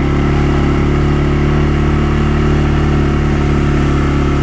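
Vehicle engine running at a steady speed while riding along.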